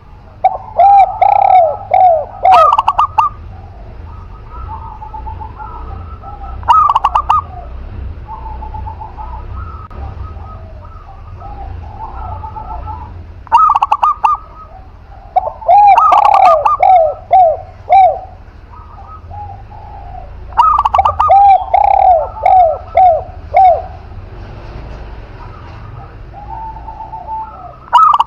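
Doves cooing: a spotted dove and a zebra dove, calling in repeated loud phrases of quick falling coos. Softer coos come in between the phrases.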